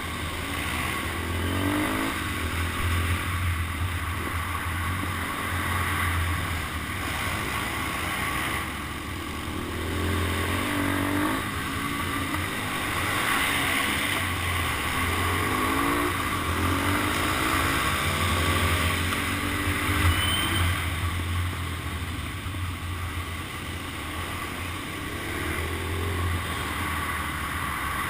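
Motorcycle engine heard from a helmet camera, its pitch climbing and dropping again every few seconds as the rider accelerates and backs off, over a steady rush of wind and engine noise.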